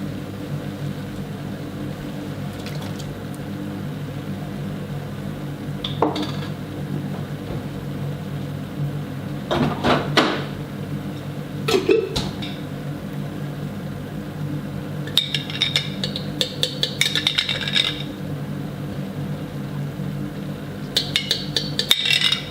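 Kitchen clatter: dishes and utensils clinking a few times, then quick runs of rattling clinks in the second half, over a steady low hum.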